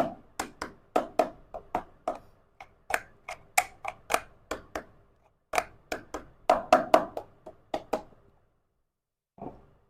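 Small miniature toy kitchen pieces being handled and set down: a quick run of sharp clicks and taps, about three a second, with a brief pause around the middle. It stops a little after eight seconds, and there is one more tap near the end.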